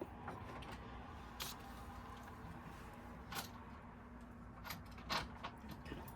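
A few light, scattered clicks and knocks of sofa parts and hardware being handled during assembly, over a low steady hum.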